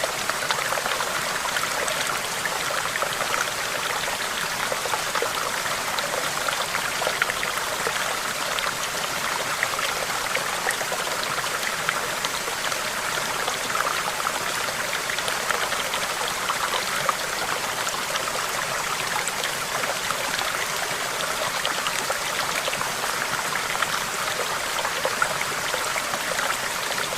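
Stream of water running steadily, with many small trickling splashes.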